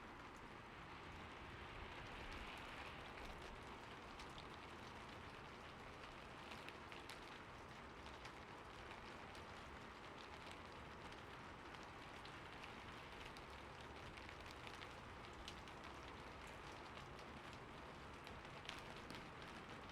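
Quiet, steady rain falling, with scattered individual drops ticking through the even patter.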